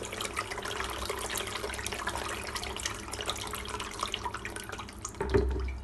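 Water pouring and splashing from the outlet of a DC60G-24120A-1 brushless DC water pump as its speed is turned down with the potentiometer knob. The stream slowly weakens, with a brief low bump near the end.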